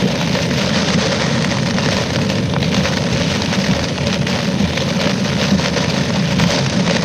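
Heavy typhoon rain on a moving car, mixed with the car's engine and tyre noise, heard from inside the cabin as a steady loud rush.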